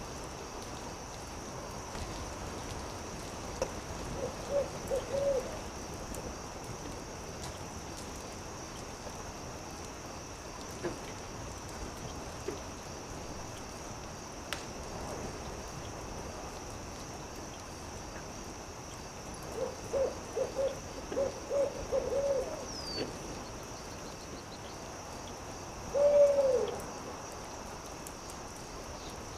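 An owl hooting: a quick run of about five hoots a few seconds in, a longer run of about eight in the second half, and one louder, falling call near the end. Underneath runs a steady high hiss with the faint crackle of a campfire.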